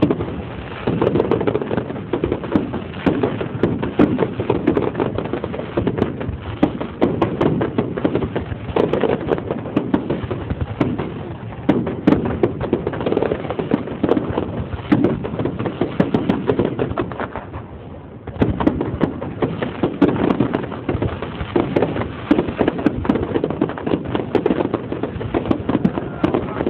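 Fireworks display: rapid, near-continuous bangs, with a brief lull about two-thirds of the way through.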